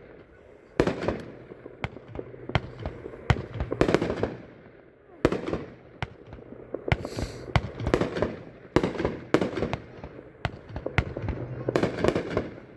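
A 24-shot red, white and blue fireworks cake (Freedom Machine) firing its shots in sequence: sharp booms, roughly one or two a second, each trailed by crackle.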